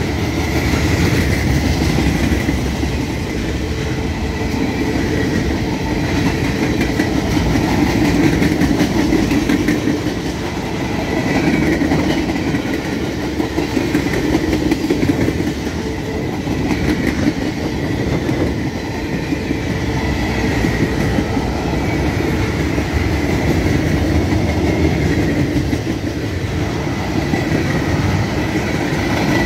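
Freight cars rolling past at close range: a steady rumble of steel wheels on the rails, with a repeated clacking as wheelsets pass over the rail joints. The loudness swells and dips every few seconds as different cars go by.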